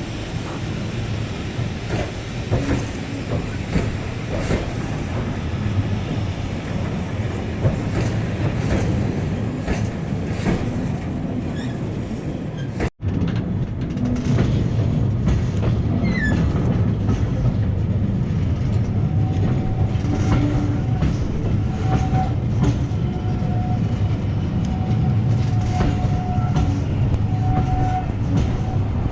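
Train running along the track: a steady rumble with the clickety-clack of wheels going over rail joints. The sound cuts out for an instant about 13 seconds in, and later a few faint held tones come through.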